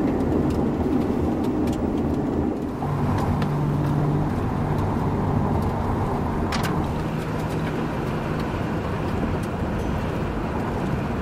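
Steady road and engine noise inside a moving car, with a low hum running through the middle and a single sharp click about six and a half seconds in.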